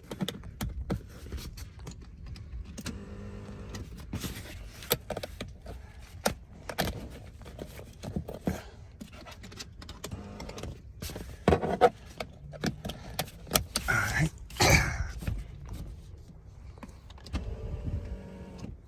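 Handling noises in a truck cab as the steering wheel is strapped in place with the seat belt: scattered clicks, rattles and rustles of the belt and buckle, with a few louder knocks a little past halfway.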